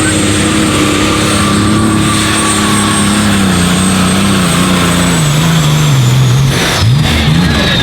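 Alcohol-burning pulling tractor engine running loud at full power under load, with a high whine over it. About five seconds in the engine note sinks, and near the end the revs drop and rise in quick blips while the whine falls away.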